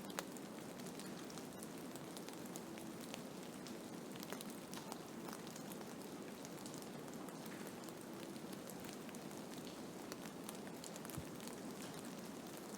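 Blizzard ambience: a steady hiss of snowstorm noise with many small, scattered ticks.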